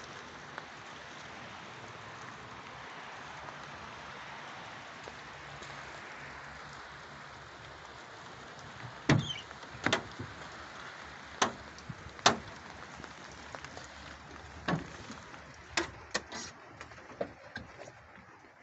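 Steady hiss like light rain, then, from about halfway, a string of sharp separate knocks and clunks, roughly nine, with the loudest just past the middle.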